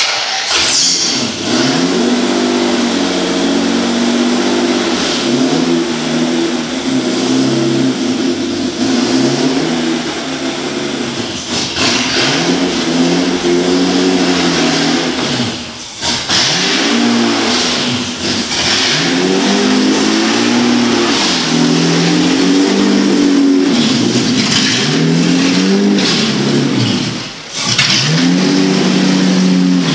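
Naturally aspirated BMW M73B54 5.4-litre V12 engine in a Nissan S13 drift car, revving hard, its pitch climbing and falling over and over, with brief sharp drop-offs twice.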